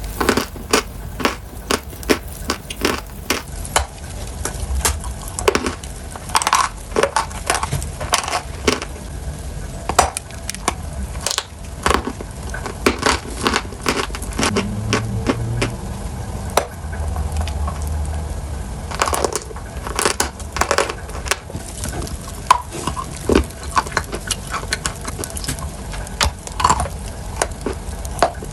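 Irregular crunching and crackling: many sharp crunches in quick, uneven succession.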